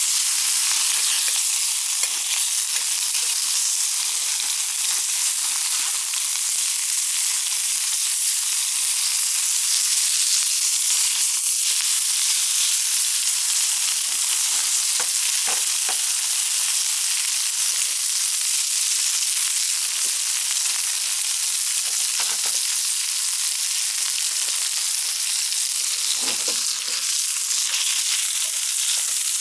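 Cooking over a wood campfire: a steady sizzling hiss with scattered crackles and a few sharper pops.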